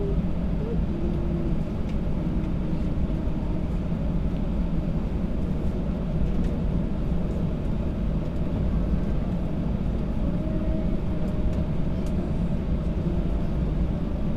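Inside an Airbus A320 cabin on the ground before takeoff, the engines run at taxi power, giving a steady low rumble.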